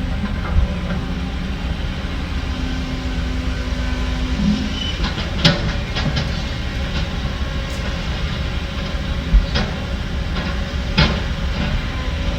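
Heavy diesel earthmoving machinery running steadily, with sharp metallic clanks and knocks every few seconds, the loudest about halfway through and near the end.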